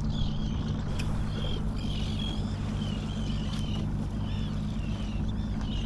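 A boat engine running steadily at idle, with a bird's short high calls repeating about twice a second over it.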